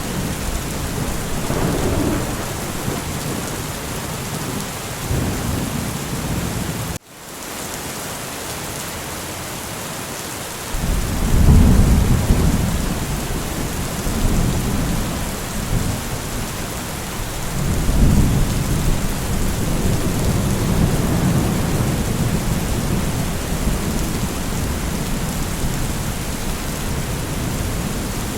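Steady heavy rain with low rolling thunder, the biggest rumbles starting about eleven seconds in and again about eighteen seconds in. About seven seconds in, the sound cuts out for an instant and comes back quieter until the next rumble.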